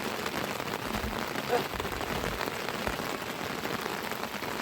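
Steady rain falling, a dense patter of drops, with one brief louder sound about one and a half seconds in.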